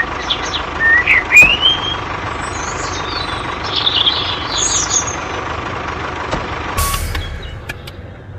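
A steady mechanical running sound with a thin high whine, squeaky chirps over it in the first half, and a short hiss about seven seconds in before it fades.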